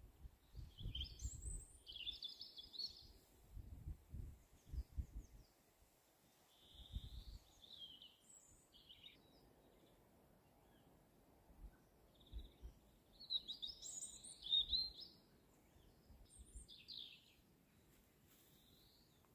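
Small songbirds singing and chirping in short, scattered phrases, faint, with a louder run of song about two-thirds of the way through. Irregular low rumbles sit beneath them, mostly in the first few seconds.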